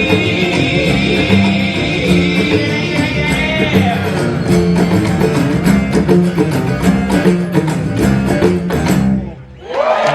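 Live band music, an instrumental passage with guitar over bass and drums, opening with a long held high note. About nine seconds in, the music drops out abruptly at a cut, and another song begins.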